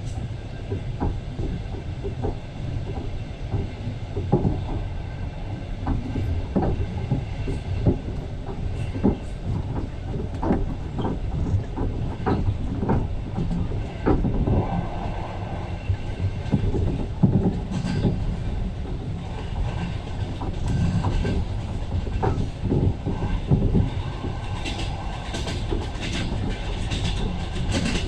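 Passenger train running on the rails, heard from inside a carriage: a steady low rumble with wheels knocking irregularly over the rail joints.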